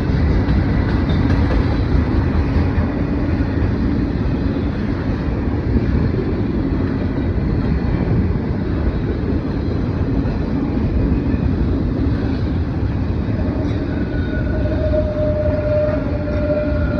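Norfolk Southern mixed freight train passing close by, a steady rumble of cars rolling on the rails. A steady high tone comes in near the end.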